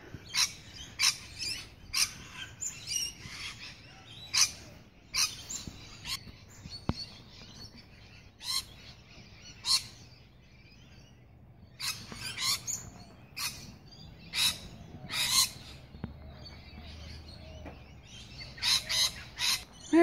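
Birds calling from the treetops: many short, sharp chirps and calls in clusters, with a couple of quieter stretches between them.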